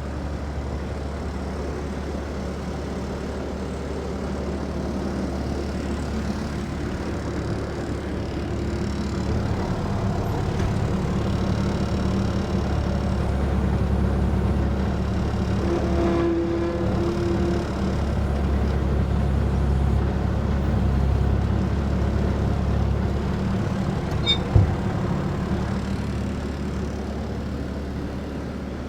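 Steady low mechanical hum that swells slightly mid-way, with a brief higher tone partway through and one sharp knock near the end.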